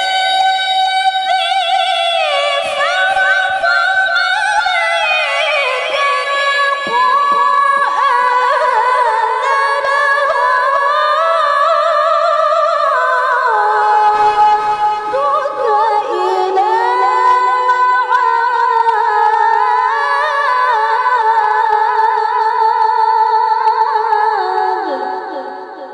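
A woman reciting the Quran in tilawah style, unaccompanied, in a high, clear voice: long melismatic phrases with wavering ornaments, fading out near the end.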